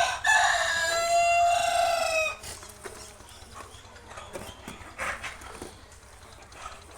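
A rooster crows once, a single drawn-out call of a little over two seconds, followed by quieter hen clucks and a few faint knocks.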